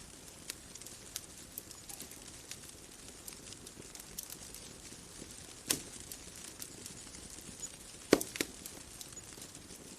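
Bonfire crackling: scattered small pops and snaps over a soft steady hiss, with a louder pop about six seconds in and two more a little after eight seconds.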